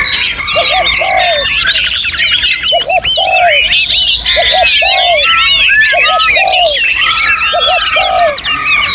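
Many songbirds singing at once in a dense chorus of chirps and whistles, over a low two-note cooing phrase that repeats about once a second.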